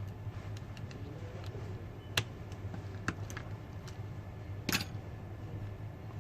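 A few small, sharp clicks and taps of tools and phone parts being handled on a workbench, the loudest about four and a half seconds in, over a steady low hum.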